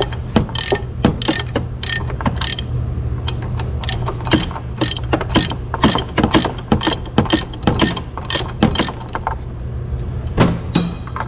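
Hand socket ratchet clicking in quick, irregular runs as it turns a fastener, the clicking stopping after about nine seconds with one last click near the end. A steady low hum runs underneath.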